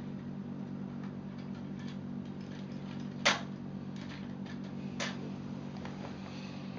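A few sharp plastic clicks of Lego Technic parts being handled and fitted together: the loudest about three seconds in, another about five seconds in, with fainter ones between, over a steady low hum.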